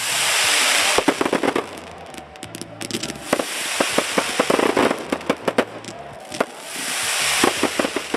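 Aerial fireworks going off: rapid crackling pops over three hissing swells, at the start, in the middle and near the end, with the loudest at the start.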